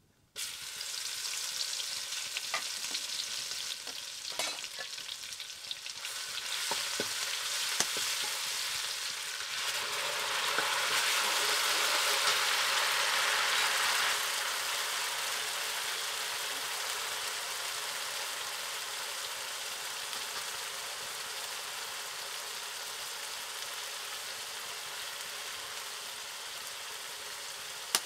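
Chopped aromatics hit hot oil in a metal kadai and sizzle at once, frying steadily with a few clinks of a ladle stirring. The frying swells to its loudest about ten to fourteen seconds in, then settles to a quieter, even sizzle.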